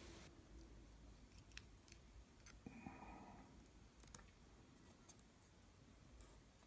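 Faint, scattered small clicks of lock parts being handled as pin number 4 is taken out of the disassembled pin-tumbler lock, the clearest about four seconds in; otherwise near silence.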